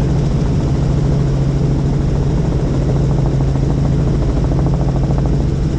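Helicopter in flight: a steady, loud drone of engine and rotor with a constant low hum and a fast, even pulsing from the blades.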